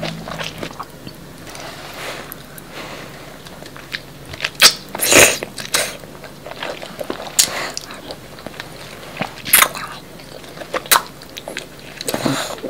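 Close-miked wet eating sounds: king crab meat coated in a creamy Alfredo sauce being chewed, with a handful of sharp, irregular mouth smacks.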